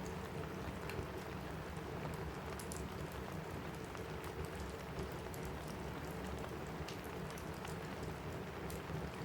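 Steady rain on a cabin roof, mixed with scattered sharp crackles and pops from a wood fire in a fireplace.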